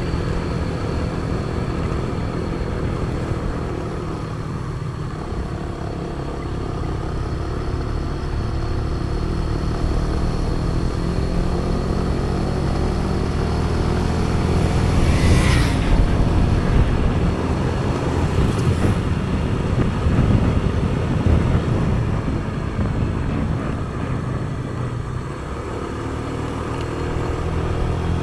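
Motor vehicle engine running at a steady cruising speed, with road and wind noise. A brief louder swish comes about halfway through.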